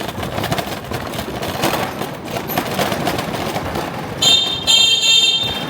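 Steady rushing noise while riding along, then from about four seconds in a shrill, steady electronic beep that sounds twice, with a short break between.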